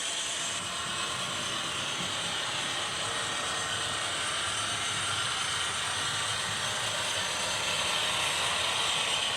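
A train running: a steady rumble with a hiss over it.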